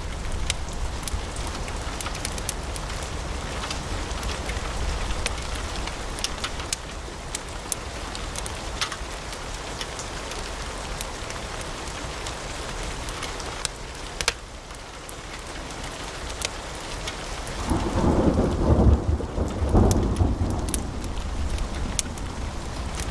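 Wood fire crackling in a fireplace: a steady hiss and low rumble of flames with many sharp pops and snaps. About eighteen seconds in, a louder low rumble swells for about three seconds, then settles back.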